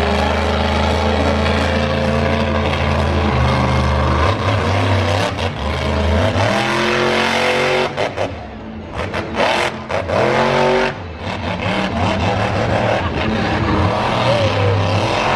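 Monster truck engine running hard, with the revs rising and falling as the throttle is repeatedly lifted and reapplied. There are brief drops in engine sound about halfway through.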